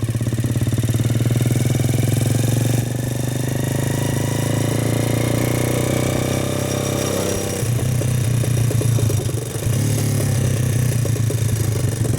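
Four-stroke motorcycle engine running steadily while riding, its note shifting a little past the middle and dipping briefly near the end.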